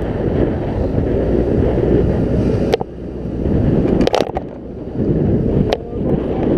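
Wind rushing over a helmet-mounted action camera's microphone on a moving scooter, with the scooter's engine running underneath. The noise dips for a second or so about three seconds in, then rises again, and a few sharp knocks come at about three, four and six seconds in.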